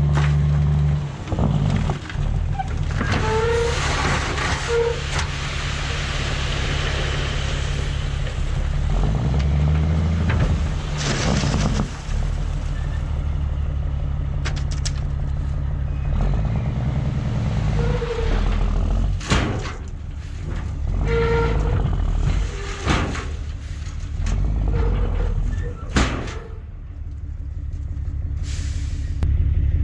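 Caterpillar C13 diesel engine of a Kenworth W900B dump truck running steadily while the truck unloads asphalt millings, with scattered sharp knocks.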